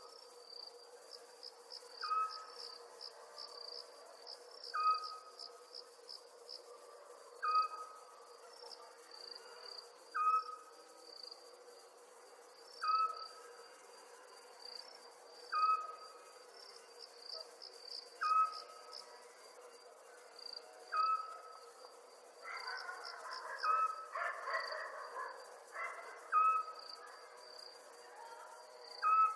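Night chorus of crickets chirping steadily, with a short whistled note repeating about every two and a half seconds and a rougher animal call for a few seconds past twenty seconds in.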